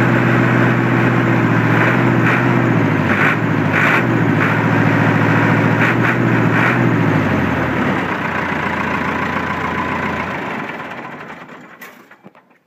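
Perkins 4.236 four-cylinder diesel of a C4 Tree Farmer skidder running steadily. It is shut off about seven and a half seconds in, slowing and dying away to a stop near the end.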